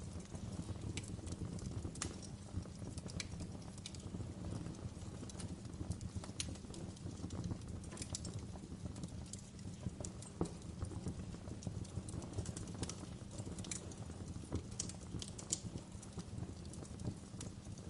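Fire crackling: a steady low rumble of flames with irregular sharp pops and snaps.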